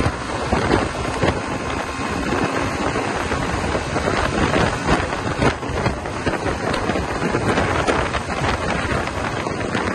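Wind rushing and buffeting on the microphone of a moving Suzuki GSX-R150 motorcycle, with the bike's running and road noise beneath it, in uneven gusts.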